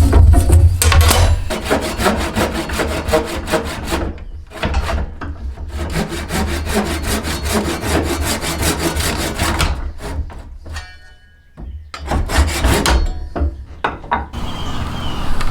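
A hand tool working a yew bow stave in rapid, repeated rasping strokes, wood scraping against steel. It pauses briefly about four seconds in and again for a couple of seconds before the strokes resume near the end.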